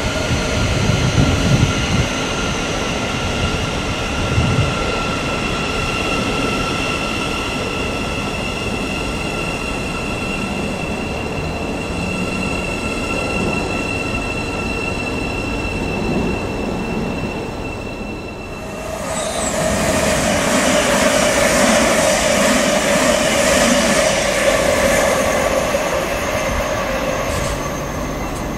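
Electric multiple-unit train pulling away, its traction motors giving a steady multi-tone whine that slowly fades. About two-thirds through, a second electric train runs past close by with a loud rush of wheel and rail noise and a strong hum, easing off near the end.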